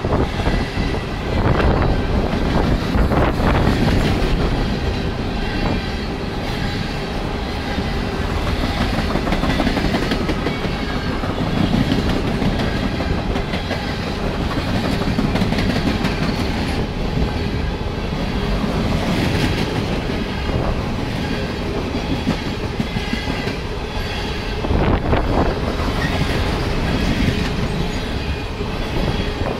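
Coal hopper cars of a freight train rolling past: a steady rumble of steel wheels on rail with repeated clicking as the wheels cross rail joints.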